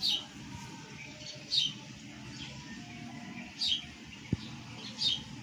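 A bird chirping: four short, high chirps spaced a second or two apart.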